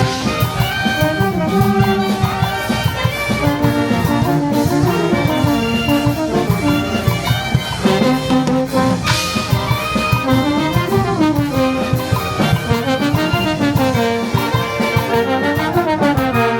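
Peruvian brass band (banda) playing a tune, with trumpets and trombones carrying the melody.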